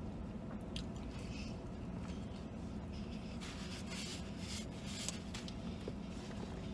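A man chewing a mouthful of fried chicken sandwich, with small wet clicks and soft paper rustling as he wipes his mouth with a napkin about halfway through. A steady low hum of the car cabin sits underneath.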